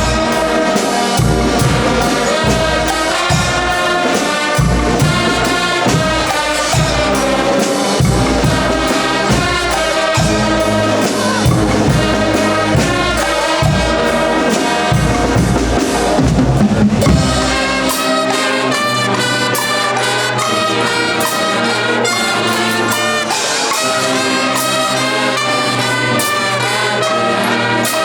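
Guggenmusik brass band playing loudly: trumpets and trombones over drums. About two-thirds of the way through, the deep bass and drum beat drop out, leaving the brass and lighter percussion.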